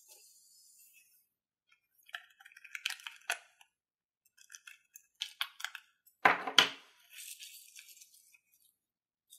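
Slime-making handling noises: scattered bursts of small clicks and crackles, with one louder burst about six seconds in.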